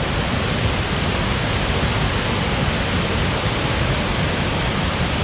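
Steady rushing noise of a waterfall falling into a gorge.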